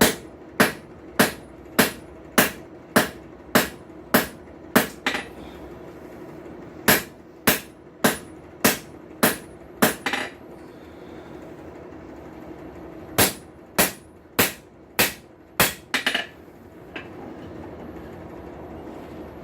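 Blacksmith's hammer striking a hot railroad spike on an anvil while forging a tongs blank. The blows come in three runs at a steady pace of a little under two a second, with pauses between the runs, over a steady low hum.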